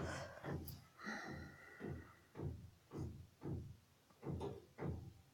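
A series of dull, low thuds repeating about twice a second, each dying away quickly.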